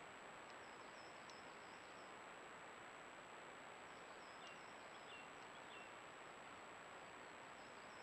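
Near silence: a steady hiss with a thin high whine, and faint bird chirps in small groups of short high notes about half a second in, around the middle, and near the end.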